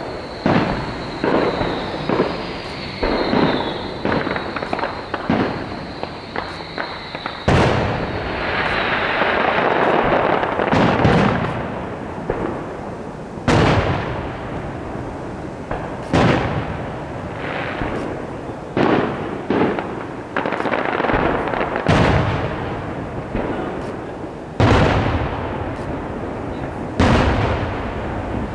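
Aerial fireworks shells bursting: a quick run of bangs through the first several seconds, then heavier single booms every two to three seconds, each with an echoing tail. A thin high tone sounds through the opening seconds.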